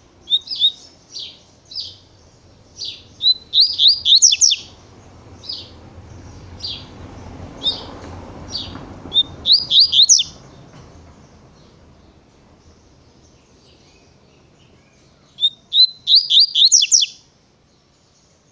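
Double-collared seedeater (coleiro) singing its 'tui tui' natural song: spaced single high chirps, broken three times by a quick run of rapid falling notes, about 4, 10 and 16 seconds in.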